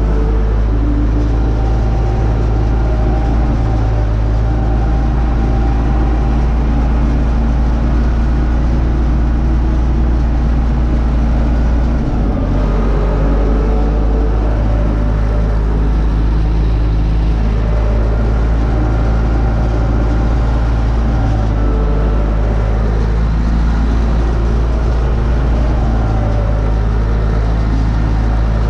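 Universal U650 tractor's diesel engine running steadily while pulling a disc harrow, with a brief dip about twelve seconds in.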